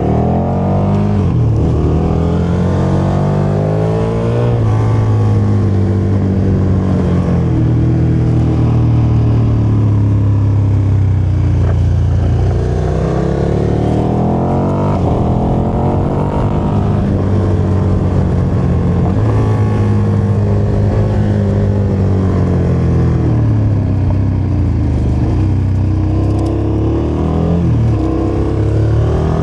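KTM motorcycle engine under way, its pitch climbing and dropping several times as the throttle is opened and closed, with road and wind noise underneath.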